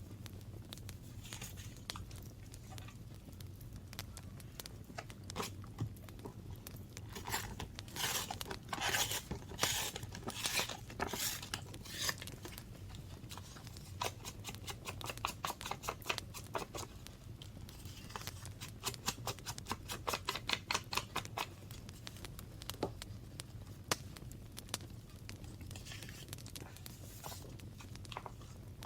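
Hands working with paper for a journal: rustling, crinkling and scraping strokes with quick light taps and clicks, coming in clusters.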